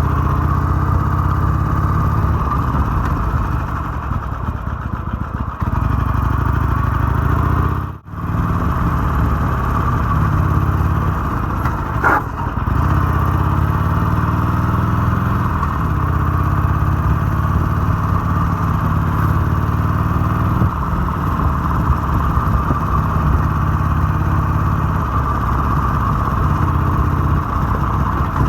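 Harley-Davidson Sportster 883's air-cooled V-twin engine running under way, its pitch climbing as it accelerates in several pulls. The sound drops out sharply for a moment about eight seconds in.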